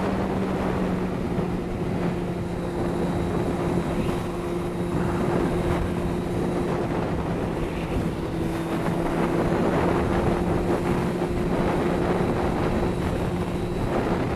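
Motorcycle engine running at a steady cruising speed, holding an even pitch, under a constant rush of wind noise on a helmet-mounted microphone.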